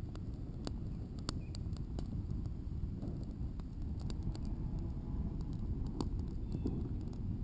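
Campfire of dry sticks crackling: irregular sharp pops and snaps over a steady low rumble.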